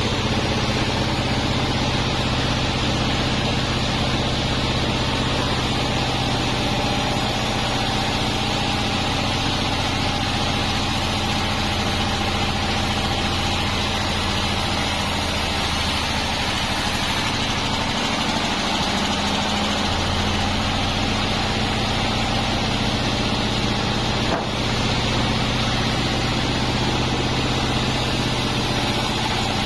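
36-inch sawmill bandsaw and its drive running steadily with a low, level hum and a hissing upper band, with one brief dip about 24 seconds in.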